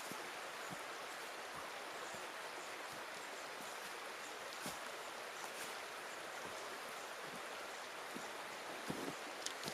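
Mountain stream babbling steadily, with a few scattered sharp clicks, the loudest near the end.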